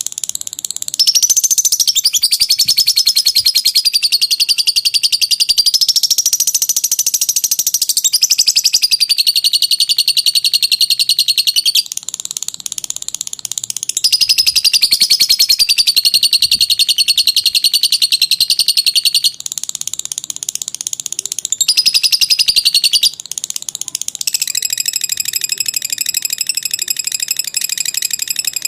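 Lovebird 'ngekek': a long, very rapid, high-pitched chattering trill, held for several seconds at a stretch with its pitch bending up and down, pausing briefly three times.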